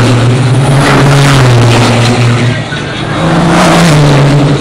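Turbodiesel race trucks passing at full throttle on a straight, their engines running in a steady loud drone, with a rush of noise as trucks go by about a second in and again near the end.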